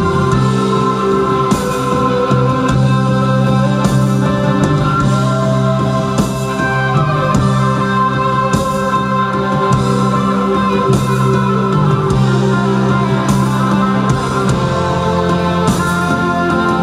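Live rock band playing an instrumental passage: guitars over bass and a steady drum beat, recorded through a camera's built-in mic.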